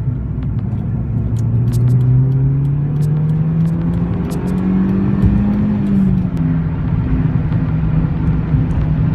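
Honda Fit's four-cylinder engine heard through a Magnaflow cat-back exhaust, pulling under acceleration with its pitch climbing steadily for about five seconds. The pitch falls about six seconds in, then holds steady.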